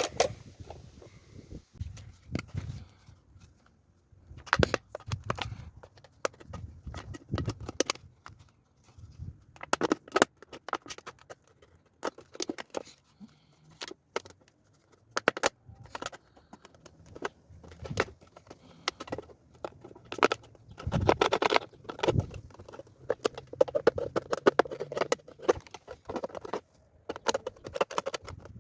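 Irregular clicks, taps and knocks of hands handling objects, coming in scattered clusters that are densest about three-quarters of the way through.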